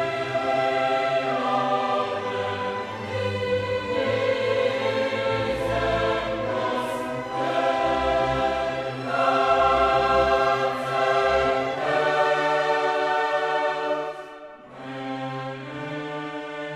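Slow classical-style choral music with orchestra: a choir singing sustained chords that change every couple of seconds, growing quieter about fourteen seconds in.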